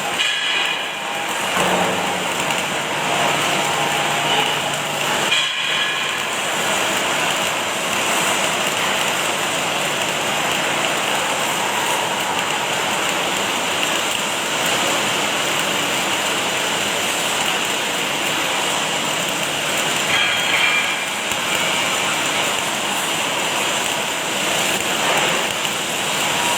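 Automatic arc welding machine running, its arc giving a steady, dense crackling hiss, with a low hum for the first few seconds.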